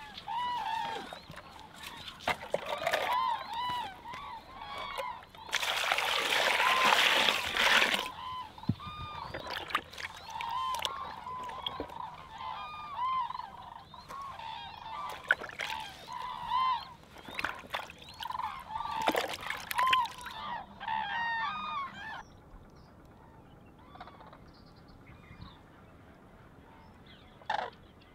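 Birds honking over and over in short, arched calls. A loud burst of hiss lasting about two seconds comes about six seconds in. The calls die away about twenty-two seconds in.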